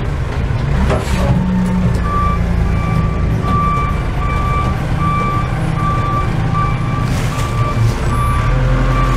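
A truck's reversing alarm beeping steadily, a bit under two beeps a second, starting about two seconds in, over the loud rumble of its diesel engine as it backs up.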